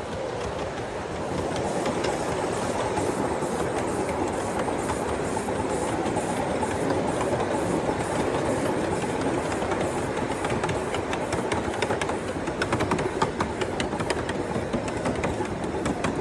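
7½-inch gauge ride-on miniature train rolling along the track: a steady rumble of wheels on rail, with sharp clicks over the rail joints that come thicker in the last few seconds.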